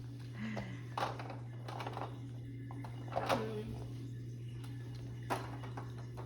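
A few sharp clicks and taps of die-cast toy monster trucks against a plastic playset, spread over several seconds, over a steady low hum.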